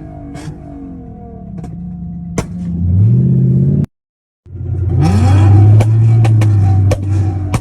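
Car engine revving: the pitch climbs and holds at high revs, cuts off abruptly in the middle, then climbs again and holds. A steady beat of sharp clicks runs underneath.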